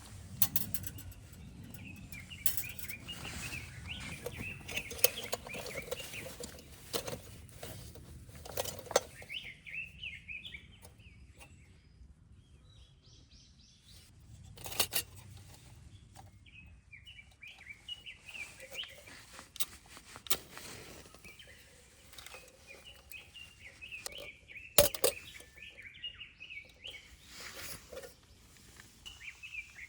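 Small songbirds twittering in quick bouts, with rustling and several sharp snaps of dry wood and twigs being gathered on the forest floor.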